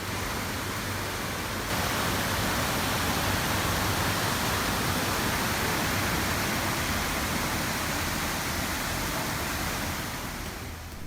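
Floodwater rushing through a street, a steady loud wash of water noise that gets a little louder about two seconds in and eases off near the end.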